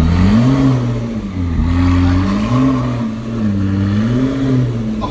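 Car engine revving up and down several times from idle, in quick blips.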